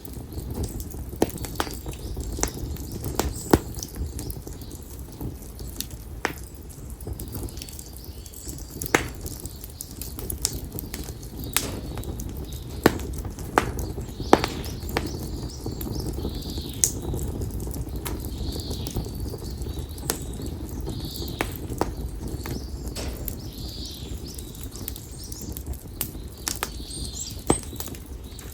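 Konara oak firewood burning in an open bonfire, crackling with sharp pops and snaps scattered all through, over a low, steady rush of flame. Birds call at intervals, with several short calls in the second half.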